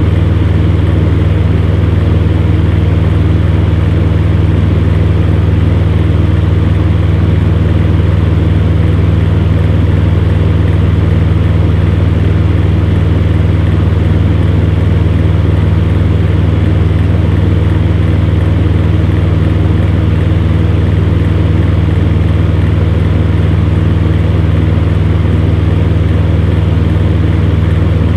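Electric fan heater running steadily: a constant low hum from the motor over the even rush of the fan's air.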